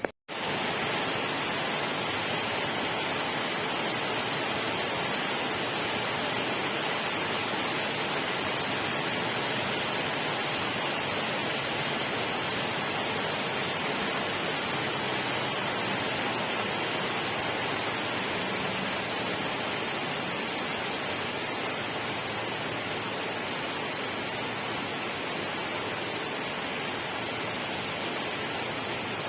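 Steady, unbroken rushing of water, even in level with no separate drops or splashes. It cuts out for a split second just after the start, then resumes.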